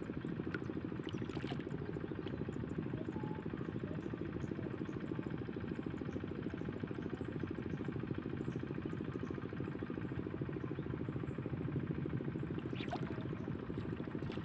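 A small engine running steadily with a fast, even pulse, with a few faint clicks over it and a sharper tick near the end.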